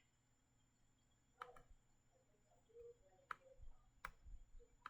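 Near silence with four faint, sharp computer mouse clicks spread unevenly through it.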